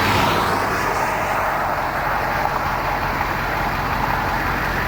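A storm-chase vehicle's engine running, a steady low rumble under an even hiss of road and wind noise.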